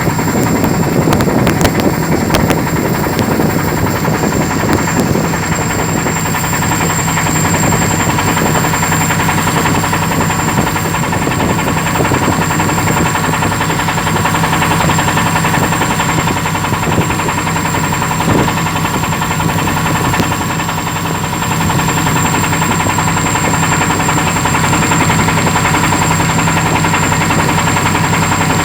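Boat engine running steadily under way, a continuous low drone with a thin, steady high whine over it.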